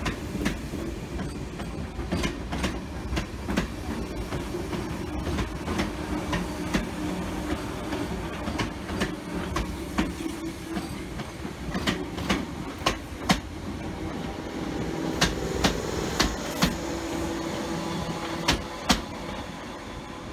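A train on the move, its running gear giving a steady low rumble with a faint hum, and its wheels clicking sharply and irregularly over rail joints, more often in the second half.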